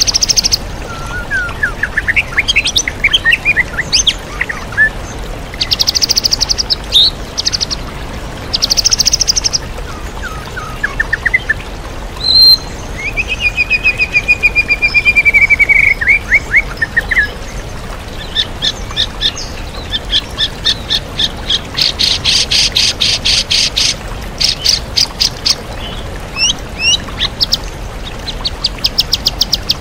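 White-rumped shama (murai batu) singing a varied song of whistles, trills and fast chattering runs, full of imitations of other birds, over the steady rush of a waterfall.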